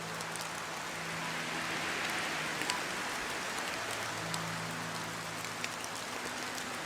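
Steady rain falling, an even wash with many individual drops ticking sharply throughout.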